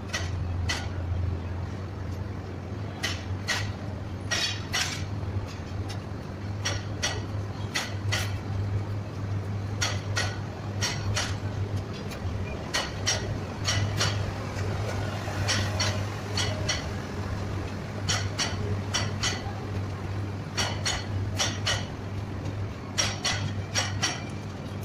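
Bangladesh Railway intercity passenger coaches rolling slowly past, their wheels clanking over rail joints and points in irregular sharp metallic clicks, one to three a second, over a steady low hum.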